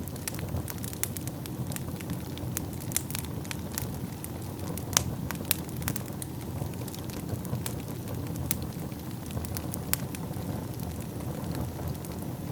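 Wood fire burning in a fireplace: a steady low rumble of flames with frequent irregular crackles and pops, the loudest pop about five seconds in.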